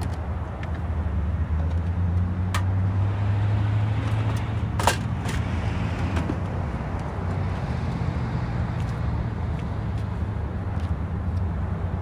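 A car engine idling steadily under scattered knocks and clunks of cooking gear being packed into the car, the loudest knock about five seconds in.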